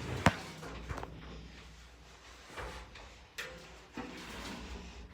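A few knocks and clicks, like a door or drawer being handled: a sharp, loud one about a quarter second in, then fainter ones spread through the rest, over a low steady hum.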